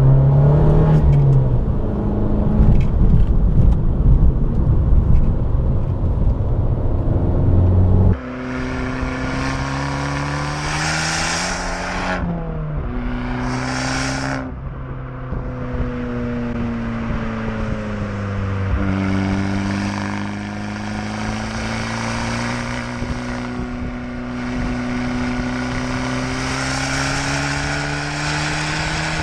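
Abarth 595 Competizione's 1.4-litre turbocharged four-cylinder engine and exhaust while driving. A heavy low rumble fills the first several seconds. After a sudden change, the engine note climbs with the revs and drops back at gear changes several times.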